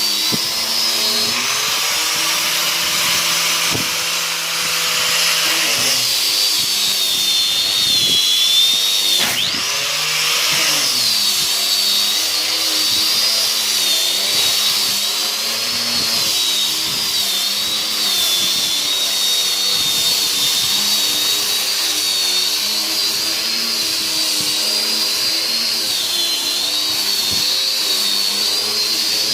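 Electric power tool running continuously during carpentry work, a steady motor whine whose pitch dips and recovers a few times, most sharply about nine seconds in.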